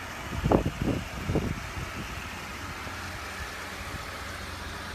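Steady low hum of an idling car engine, with a few brief low thuds in the first second and a half.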